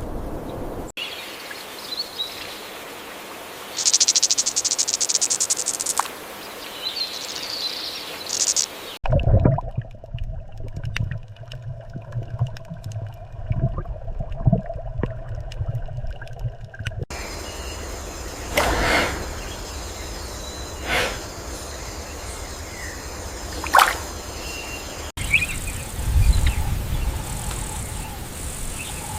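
Outdoor nature ambience with scattered bird chirps and calls over a background hiss of insects and wind. It changes abruptly every eight seconds or so as one recording gives way to another.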